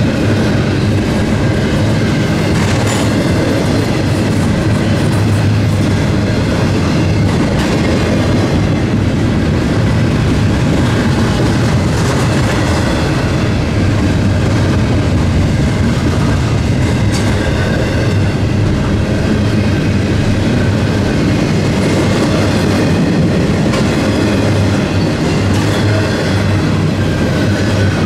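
Norfolk Southern eastbound intermodal freight train rolling past at close range: a steady, loud rumble of wheels on rail with occasional clicks over rail joints.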